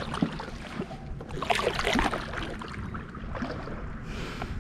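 Kayak on the water: scattered small knocks and splashes around the hull, busiest about one and a half seconds in, over a steady low rumble.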